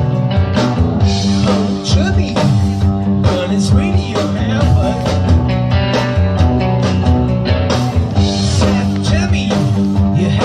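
Live rock band playing a song: electric guitar over bass and drums, with steady drum hits.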